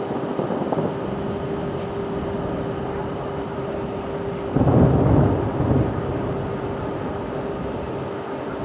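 Distant fireworks heard from about 2.8 km away: one low rolling boom about halfway through, over a steady hum.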